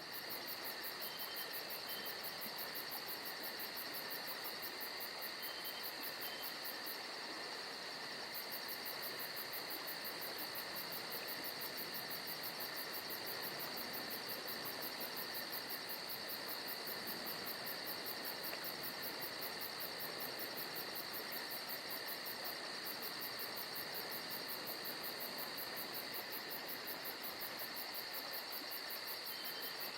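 Steady chorus of insects chirring, a constant high buzz with a fast, even pulse that holds without a break.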